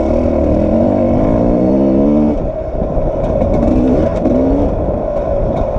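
Sherco 300 SE-R's two-stroke single-cylinder enduro engine under way. It revs up with rising pitch for about two seconds, drops off as the throttle is eased, then pulls up again.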